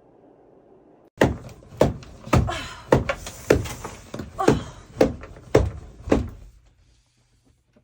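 A run of about ten loud thuds, roughly two a second, each with a short ring after it, like something being banged repeatedly; they stop a little over six seconds in.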